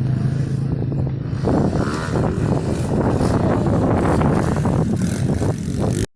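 Small pit bike engine running, a steady hum for about the first second and a half, then a rough, noisy stretch.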